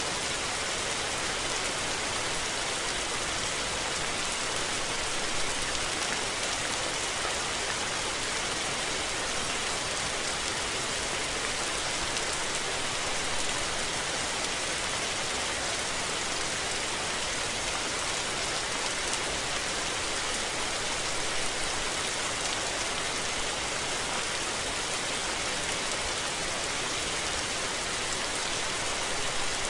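Steady rain falling, a dense, even hiss of many drops that keeps the same level throughout.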